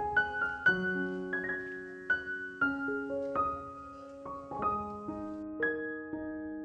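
Background piano music: slow single notes and chords struck about every half second, each left to ring out.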